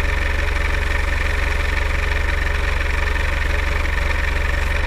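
An engine idling steadily with a low, even pulse.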